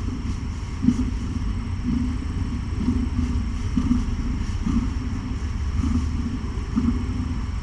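A cat purring close to the microphone, a steady low rumble that swells a little more than once a second with her breathing.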